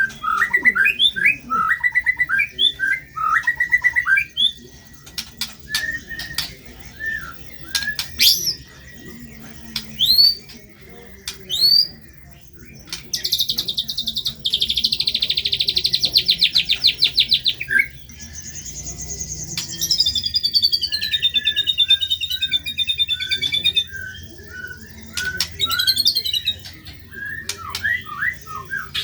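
White-rumped shama (murai batu) singing a varied song of short chirps and whistled upward sweeps. About halfway through comes a long, harsh buzzing rattle, followed by a wavering trill that falls in pitch.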